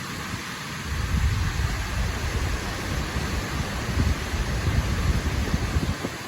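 Pokali waterfall rushing in a steady roar of falling water. From about a second in until near the end, heavy wind buffeting on the microphone adds an uneven low rumble.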